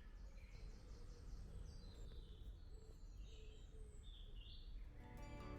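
Faint birdsong: scattered short chirps over a low rumble. Music with chime-like notes begins near the end.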